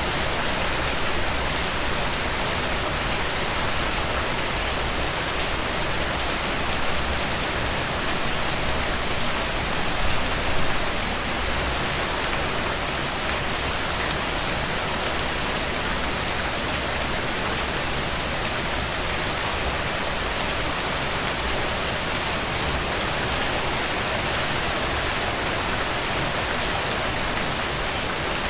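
Steady rain falling on a tent, an even hiss with many fine sharp drop ticks, briefly louder about ten seconds in.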